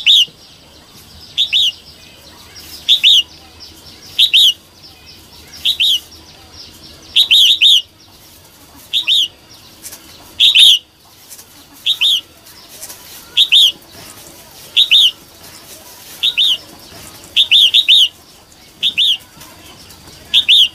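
Female red-whiskered bulbul calling: short, high notes given singly or in quick pairs and threes, repeated about every second and a half.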